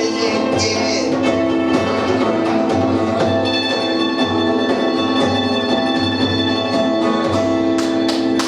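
A live punk rock band plays instrumental: distorted guitar chords held over bass and a steady drum beat. Near the end come a few sharp drum hits as the song ends.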